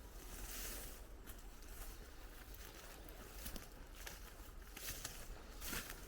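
Bicycle tyres rolling along a path, with irregular crackling and crunching from the surface under the wheels.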